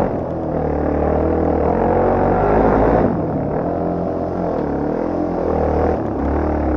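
Yamaha TT250R Raid's single-cylinder four-stroke engine running while riding, its pitch rising and falling again and again as the throttle is opened and closed, with a drop in revs about three seconds in.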